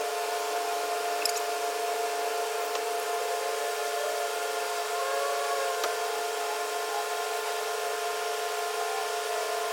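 Truck-stop diesel pump running while fuelling a semi truck: a steady high-pitched whine of two tones over an even hiss of fuel flowing through the nozzle.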